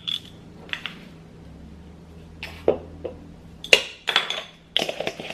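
Kitchen utensils and dishes clinking and knocking as dry ingredients are measured into a mixing bowl: a string of separate sharp clinks, most of them in the second half.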